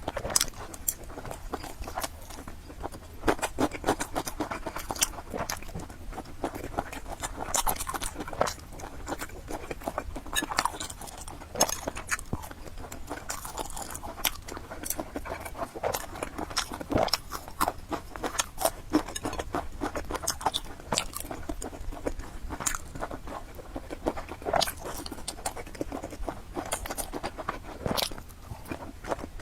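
A person chewing and biting food, with many short, irregular crunchy clicks and wet mouth sounds.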